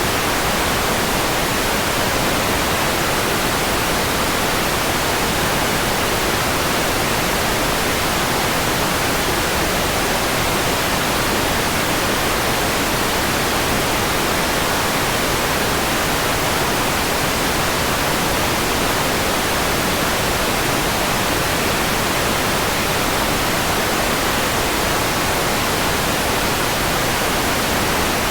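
Steady synthetic white noise: an even, unchanging hiss across the whole range of pitch.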